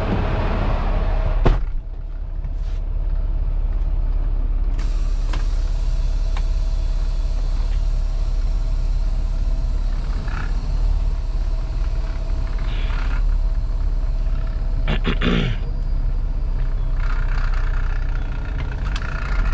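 Semi-truck engine running steadily, heard from inside the cab. There is a sharp click about a second and a half in, and a few short air hisses later on.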